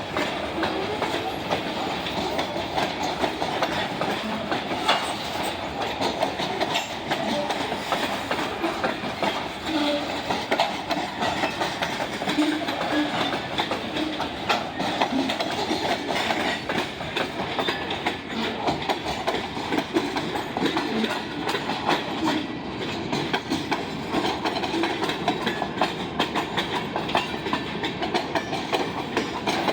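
Freight cars of a CSX train rolling past at steady speed: a continuous rumble and rattle of steel wheels with clicks over the rail joints.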